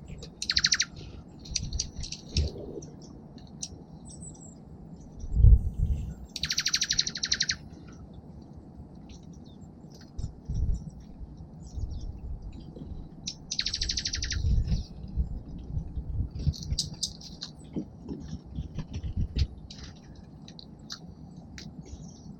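Small songbirds at a seed feeder calling: scattered short chirps and three harsh, buzzy calls of about a second each, one right at the start, one about six and a half seconds in and one near fourteen seconds. Low thumps and knocks come in between, the loudest about five and a half seconds in.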